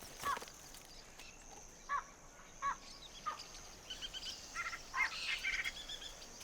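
Wild birds calling in the bush: a few short chirps a second or so apart, then a quicker run of higher calls. A steady high insect drone runs underneath.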